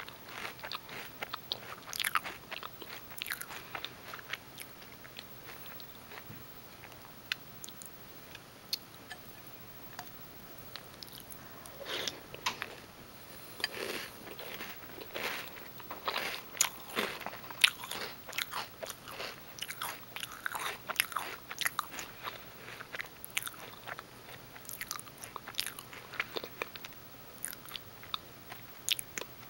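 A person chewing Reese's Peanut Butter Puffs cereal: irregular crisp crunches and crackles in clusters, with a sparser stretch about five to eleven seconds in.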